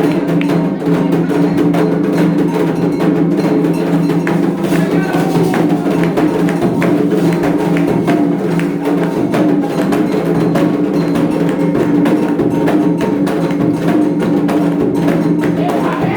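Afro-Brazilian ritual percussion music: fast, dense wood-block-like strikes over steady sustained low tones that run throughout.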